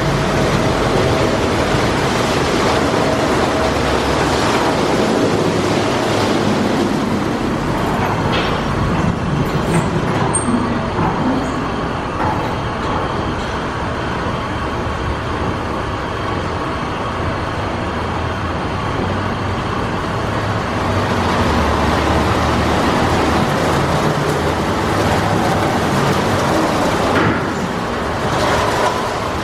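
Mark VII Softwash XT automatic in-bay car wash running: a loud, steady rush of water spray and machinery, with a brief drop about 27 seconds in.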